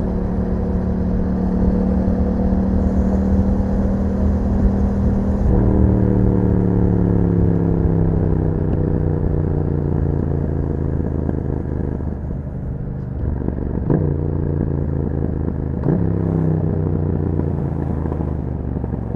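2021 Yamaha MT-07's 689 cc parallel-twin engine through an Akrapovic exhaust, heard from on the bike while riding. It runs at a steady pitch, then about five seconds in the pitch jumps with a click and the revs fall away slowly as the bike slows on a closed throttle. Two more sudden pitch changes with clicks come near the end, typical of gearshifts.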